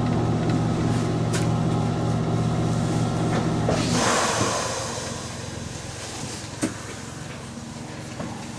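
A train's steady mechanical hum cuts off about four seconds in with a short burst of hissing air, which fades within a second. A quieter running background is left, with a sharp click a few seconds later.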